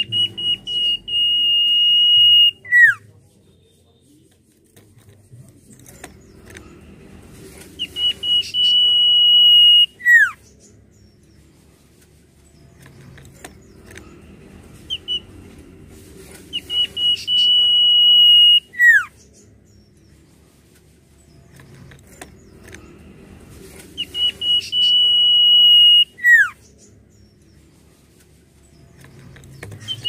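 Common iora (cipoh) singing: four repeated phrases, each a few short notes leading into a long, steady high whistle that ends in a quick downward slur, about every eight seconds.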